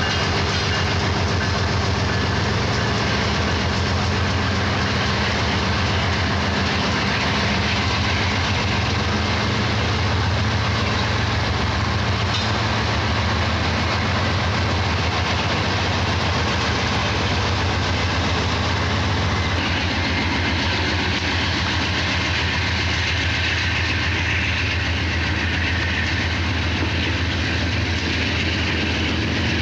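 Diesel freight locomotives of a five-unit consist running hard under load as they pull a heavy coil train uphill, a steady deep engine drone over the rumble and clatter of the train's wheels on the rails. The sound shifts a little about two-thirds of the way through.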